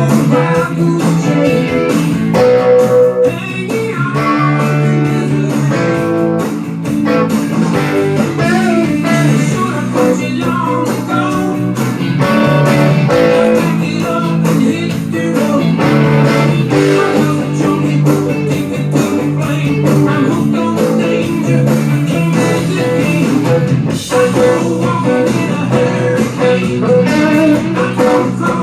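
Blues-rock band recording with electric guitar playing prominently over bass and drums, with little or no singing.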